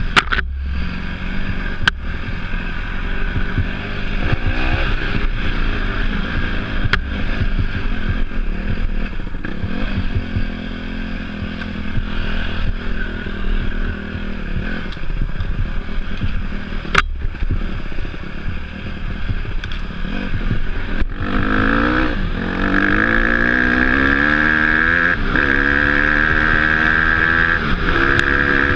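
Off-road motorcycle engine running under a rider, its pitch rising and falling with the throttle, getting louder with repeated revs from about three quarters of the way in. A few sharp knocks stand out.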